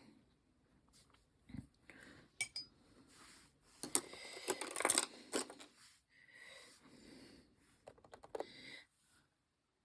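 Light clicks and clatter of small hard objects being handled and set down on a craft work table, busiest in a flurry of taps in the middle and a few more clicks near the end.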